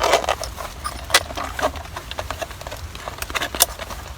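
Irregular clicks, knocks and rustling as a folding camping gas stove and its gas hose are handled and packed into their carry case, with a burst of rustling at the start.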